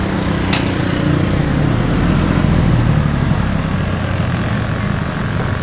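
A vehicle engine running steadily, growing louder a couple of seconds in and then easing off.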